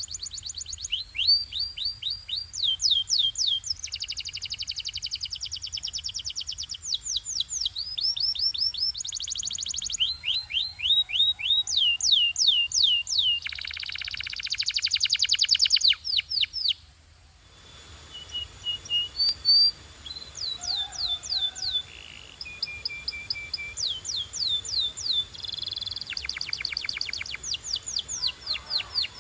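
Domestic canary singing: fast trills of rapidly repeated, downward-sweeping high notes, each run held at one speed before switching to the next. The song breaks off briefly a little past halfway, then carries on in the same trilling manner.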